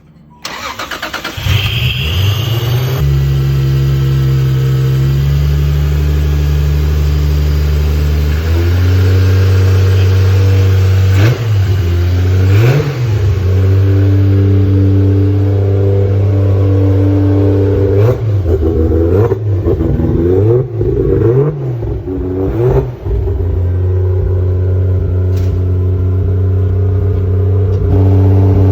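Turbocharged 2JZ inline-six in a Nissan 300ZX, running through a freshly built custom downpipe and exhaust. It holds a fast idle that drops to a lower idle about eight seconds in, then is blipped in several short revs before settling back to idle.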